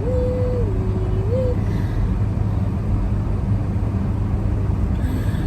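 Steady low engine and road rumble inside a car climbing a hill on snowy roads. For about the first second and a half, a clear tone steps back and forth between two pitches over the rumble.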